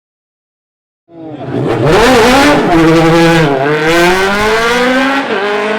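Race car engine at full throttle, starting abruptly about a second in. The note climbs, drops sharply about two and a half seconds later as the car shifts gear, then climbs again.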